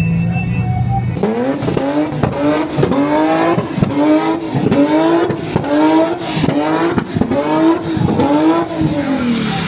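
A car engine revved hard over and over, about twice a second, the pitch climbing and snapping back down each time, then the revs falling away in one long drop near the end.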